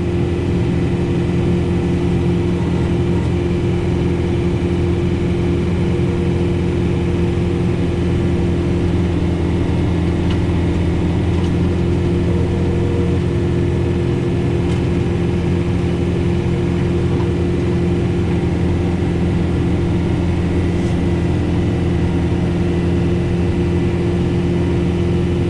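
John Deere 4066R tractor's diesel engine running at a steady speed, driving a Frontier snowblower through heavy wet snow, heard from inside the cab. The engine note holds a steady hum throughout.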